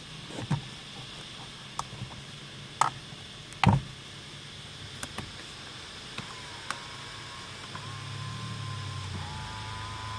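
Honda Civic engine running, with a few sharp clicks and knocks in the first four seconds and a thin steady whine coming in about six seconds in.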